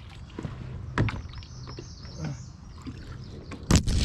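Kayak on the water: low water noise with scattered knocks, then a run of loud knocks and splashes near the end, typical of a paddle striking the water and bumping the hull.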